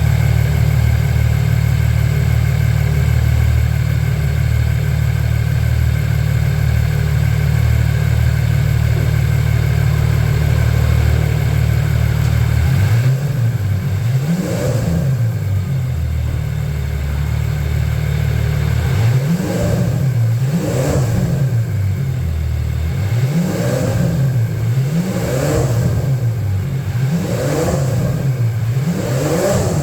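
Ferrari F140 V12 engine idling steadily, then from about 13 seconds in being revved in repeated short throttle blips, the pitch rising and falling every second or two.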